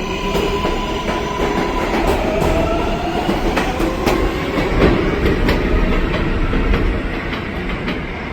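New York City subway train of R188 cars on the elevated Flushing Line running through, its wheels clacking over the rail joints. Its motors give a faint whine that rises in pitch about three seconds in.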